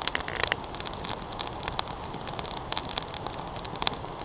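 Campfire burning, the wood crackling with frequent sharp pops over a steady hiss of flames.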